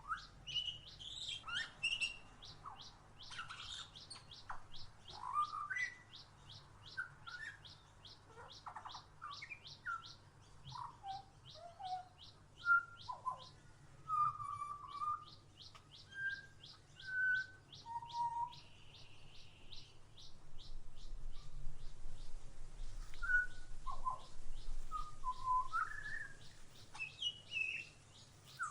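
Songbirds calling at a backyard feeder: one bird repeats a short high note about three or four times a second for long stretches, while others chirp and whistle in short, varied phrases. A faint steady low hum runs underneath.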